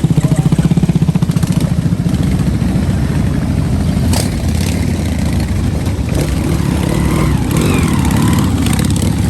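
A large engine running with a rapid, pulsing exhaust beat. After about two seconds it settles into a steadier rumble.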